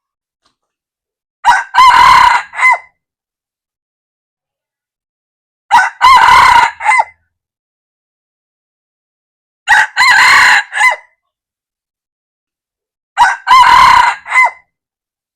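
Red junglefowl rooster crowing four times, evenly spaced about four seconds apart; each crow is short, a quick opening note followed by a brief rising-and-falling phrase.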